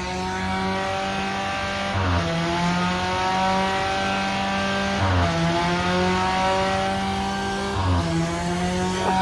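Ford Ranger's engine held at high revs during a burnout, its pitch dipping briefly and climbing back three times, over tyre noise.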